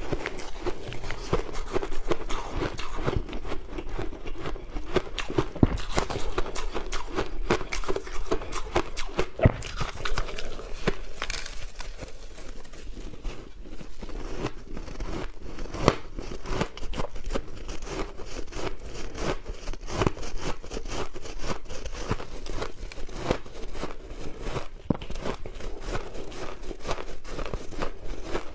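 Close-up chewing and biting of crushed ice: dense, rapid crunching and crackling that runs on without pause.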